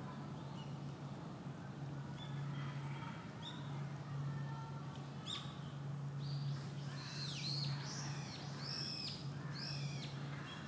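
Birds calling: scattered high chirps, then a run of loud, arching calls in the second half, over a steady low hum.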